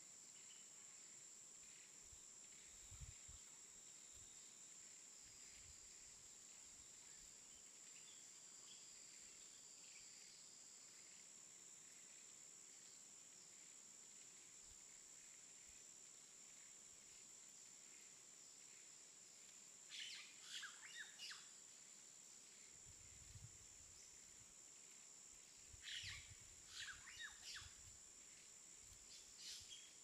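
Near silence with a faint steady hiss, broken by two short runs of small bird chirps about two-thirds of the way through and again a few seconds later.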